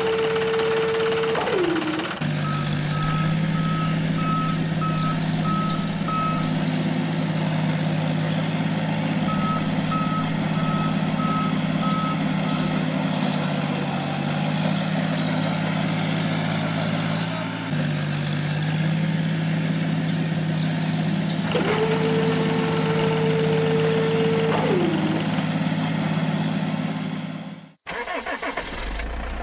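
Tractor engine running steadily, with two runs of evenly spaced beeps like a reversing alarm. Twice a held tone ends in a falling glide, and the sound cuts off suddenly near the end.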